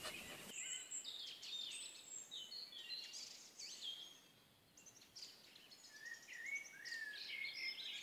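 Faint, busy chirping of birds: many short, high twitters and quick up-and-down sweeps, with a brief lull about halfway through.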